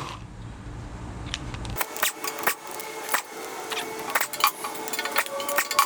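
Irregular small metallic clicks and knocks of hand tools and bolts on an LS1 V8 engine block while the valley cover is being unbolted.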